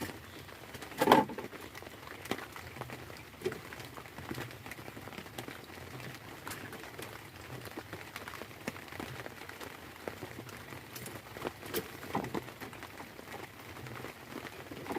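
Rain falling steadily, with scattered drops tapping on a hard surface and one louder knock about a second in.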